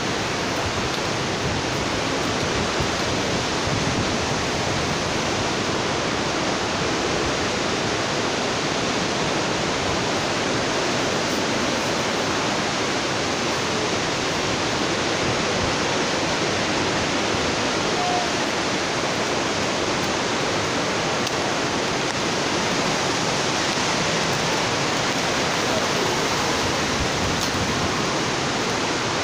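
Steady, loud rushing of strong typhoon wind, an even roar with no single gust standing out.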